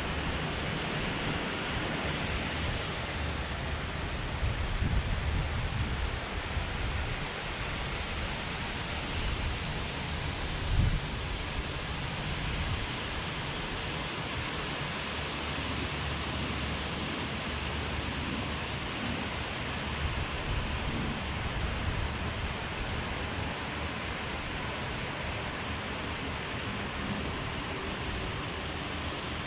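River water rushing steadily from a dam outflow, a constant even hiss. Low, uneven wind rumbles hit the microphone now and then, with a brief louder bump about eleven seconds in.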